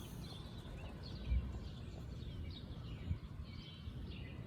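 Birds chirping intermittently over a low steady rumble, with a dull thump about a second in.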